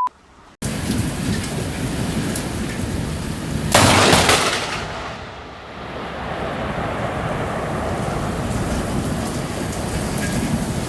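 Heavy rain falling steadily in a thunderstorm, cutting in about half a second in, with one loud crack of thunder about four seconds in that lasts about a second.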